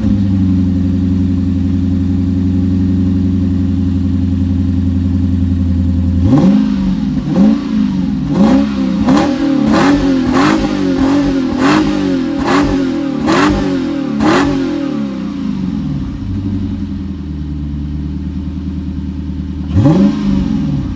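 Lexus IS F's 5.0-litre 2UR-GSE V8 engine idling steadily, then blipped quickly about ten times in a row from about six seconds in, each rev rising and dropping back. It settles to idle again and gets one more short rev near the end.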